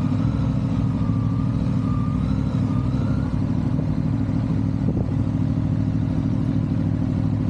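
Motorcycle engine running steadily on the move, under a heavy low rumble of wind noise.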